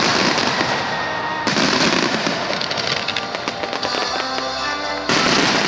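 Japanese starmine fireworks barrage: dense crackling stars and shell bursts over music. There are loud surges of bursting about a second and a half in and again near the end.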